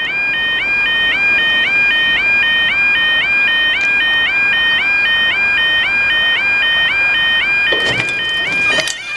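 UK level crossing warning alarm sounding: a loud electronic two-tone warble that steps between pitches in a fast, even, unbroken cycle, signalling that the barriers are coming down for a train. A few sharp knocks near the end.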